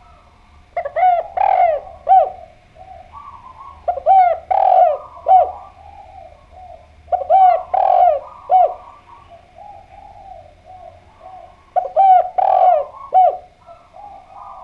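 Spotted dove (derkuku, tekukur) cooing: four loud phrases about three and a half seconds apart, each of three or four coo notes, with softer low cooing between the phrases.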